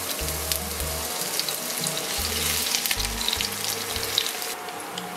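Chopped garlic and sliced onion sizzling and crackling in hot cooking oil in a wok; the sizzle softens near the end.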